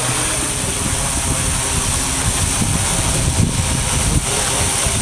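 Wind buffeting the microphone in gusts over the steady whir of a SkyHero 1000 quadcopter hovering, its four Avroto 3520 brushless motors spinning 17-inch wooden props.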